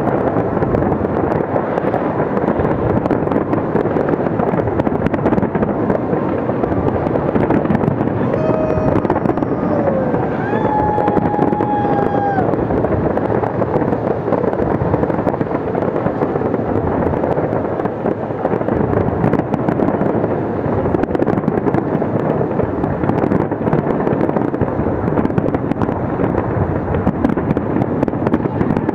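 Fireworks display in full barrage: aerial shells bursting and crackling densely and without a pause, the reports overlapping into a continuous rumble.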